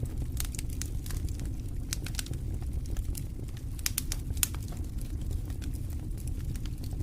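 Campfire crackling: scattered sharp pops and snaps from the burning wood over a low steady rumble.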